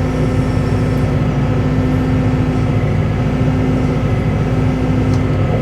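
Cat 313 excavator's diesel engine running steadily with a low rumble and a steady held hum that cuts off near the end.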